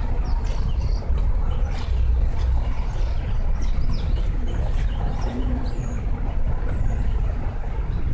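A steady low rumble with faint scattered ticks over it.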